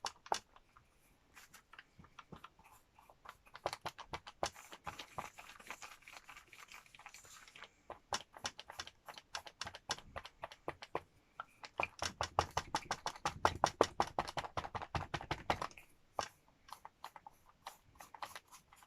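Rapid dabbing taps of an applicator on a hardback book cover, in two long runs of many quick taps with scattered single taps between, the second run louder.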